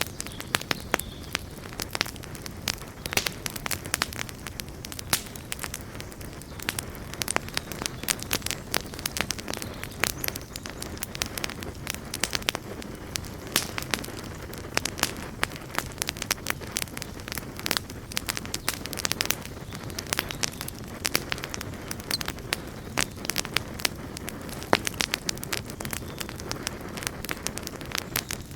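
Campfire burning with irregular, closely spaced crackles and pops over a steady low rumble of flame.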